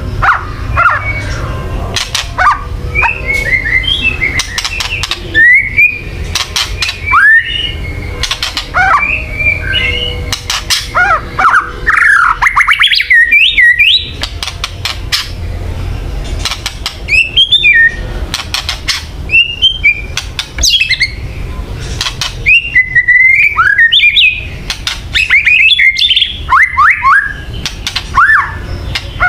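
White-rumped shama (murai batu) giving repeated rapid rattling 'kretek' calls between short whistled notes that rise and fall: the bird's agitated, combative call that keepers play to provoke other shamas into fighting form.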